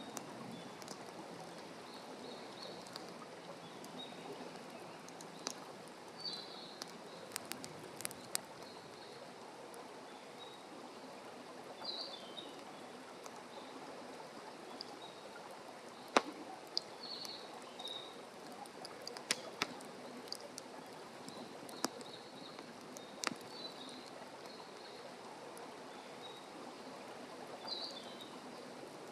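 Wood fire crackling in a fire pit, with sharp pops scattered through over a steady hiss; the loudest pop comes about sixteen seconds in. A bird gives short high chirps every few seconds.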